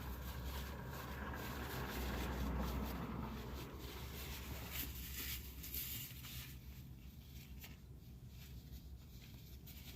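Someone chewing a crispy chicken sandwich and handling its paper wrapper, with faint rustling, crinkling and small clicks over a low steady hum. The rustling dies down after about six seconds.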